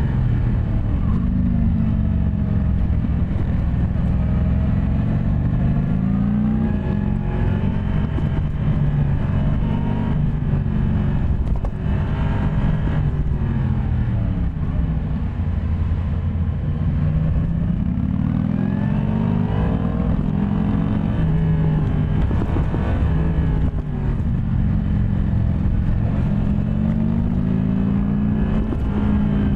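Yamaha MT-10 SP's crossplane inline-four engine under way, its pitch climbing and dropping again every few seconds as the throttle is opened and closed.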